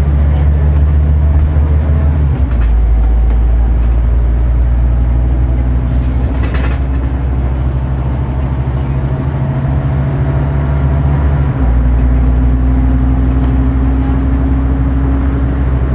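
Scania CN230UB Omnicity bus's diesel engine and drivetrain running under way, heard from on board. The low drone changes abruptly about two seconds in and again about twelve seconds in, with a rising tone after the second change. A brief hiss comes about six and a half seconds in.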